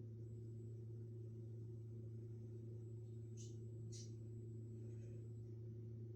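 Steady low electrical hum with a few even overtones, with two brief faint high squeaks about three and a half and four seconds in.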